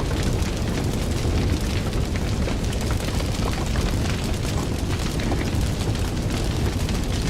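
Fire burning with a steady low rumble and frequent small crackles and pops.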